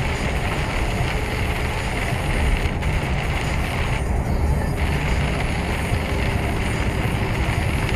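Lorry on the move, heard from inside the cab: steady engine drone and road noise.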